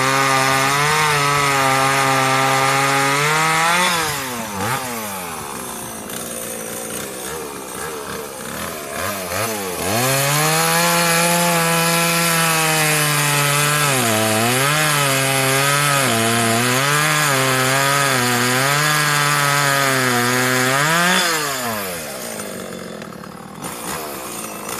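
Chainsaw cutting a fallen neem tree, its engine pitch sagging and rising as it works through the wood. It eases off about four seconds in, bites in hard again about ten seconds in, and eases off near the end.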